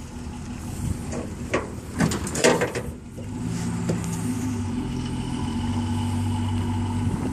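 Series Land Rover engine: a few knocks and clatter in the first three seconds, then the engine running steadily with a low drone.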